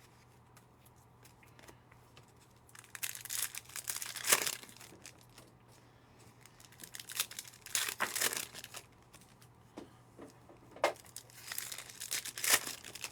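Foil trading-card pack wrappers being torn open and crinkled by hand, in three bouts of crackling tearing separated by quieter stretches with a few small clicks.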